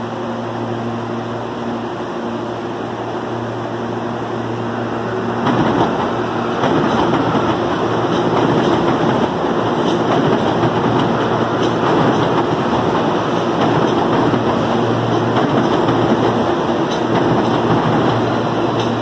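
CPTM electric suburban train passing on the next track: a steady hum at first, then from about five and a half seconds in the louder rumble of wheels on rails, with a few sharp clicks over rail joints.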